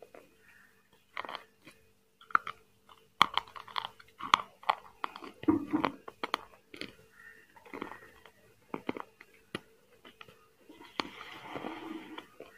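Close-miked eating: chewing and biting with irregular sharp crunches and mouth clicks, a denser crunchy stretch of chewing near the end.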